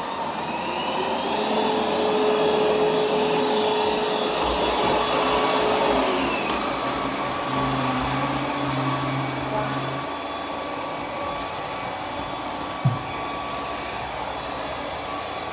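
Roborock Q10V+ robot vacuum running, its suction motor whine rising in pitch about a second in, holding steady, then dropping back about six seconds in. A single short thump comes near the end.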